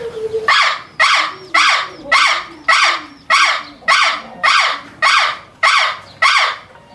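An animal giving a long run of loud, harsh calls, about eleven of them evenly spaced at a little under two a second.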